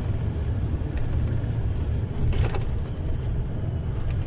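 Truck engine running steadily with a low rumble, heard from inside the cab, with a short hiss about two and a half seconds in.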